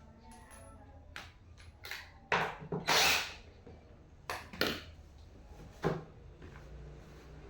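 Office chair parts being handled and fitted during assembly: a series of knocks and clicks, with a few louder scraping, clattering bursts.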